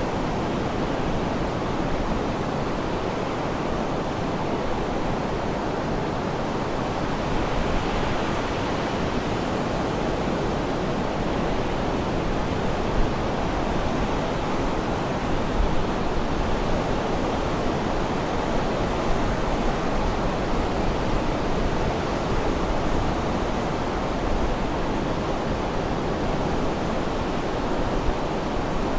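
Sea waves washing ashore in a steady, continuous rush that swells a little now and then.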